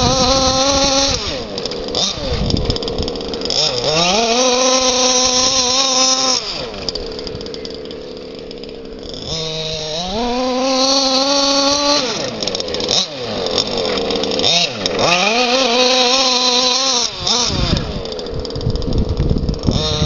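Oddified 29cc two-stroke petrol engine of an FG Marder Beetle large-scale RC buggy, running on a tuned expansion pipe. It revs hard in repeated full-throttle bursts: the pitch climbs steeply, holds high, then drops away, about every five to six seconds.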